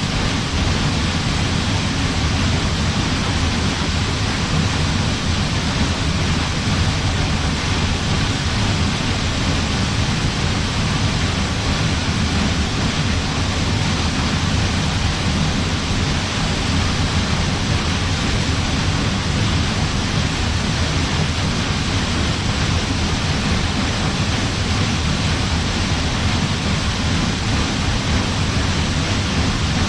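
Waterfall plunging into its pool: a loud, steady rush of falling water with a deep rumble and no breaks.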